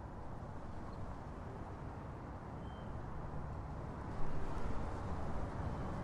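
Steady low rumbling background noise, with a small rise in level about four seconds in.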